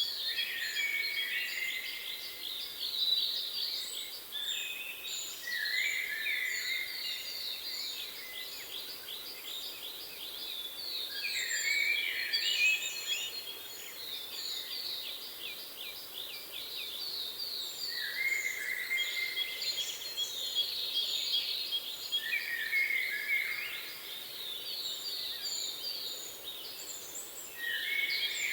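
Several songbirds singing on and off, in fast trills of short falling notes and lower warbled phrases, over a faint steady hiss.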